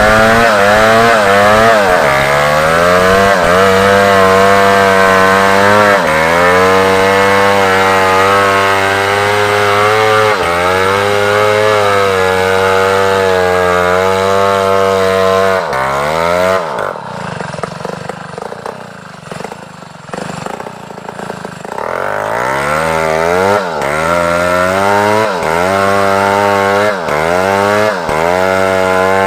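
Large chainsaw at full throttle sawing through African wood, its engine pitch sagging and recovering as the chain bites. About two-thirds of the way through it drops to a lower, quieter running for several seconds. It then comes back up to high revs with a dip in pitch about once a second.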